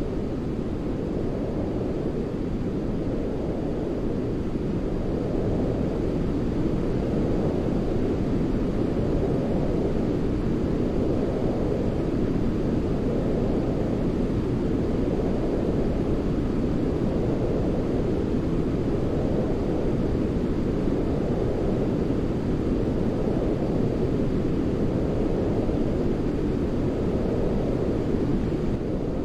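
Continuous deep rushing noise for baby sleep, weighted to the low end like brown noise, swelling and easing gently every three to four seconds.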